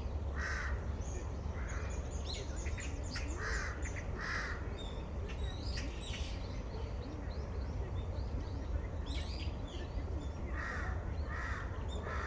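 Crow cawing, single harsh caws in two loose series: four in the first half, then three more near the end. Small birds chirp and twitter between the caws over a steady low hum.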